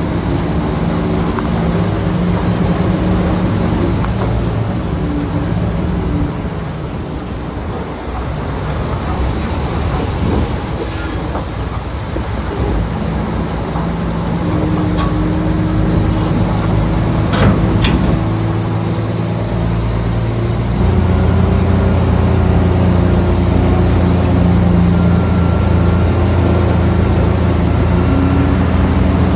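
Heavy diesel engine of earthmoving machinery running under varying load, dipping briefly and then getting louder and deeper about two-thirds of the way in. A few sharp knocks sound in the middle.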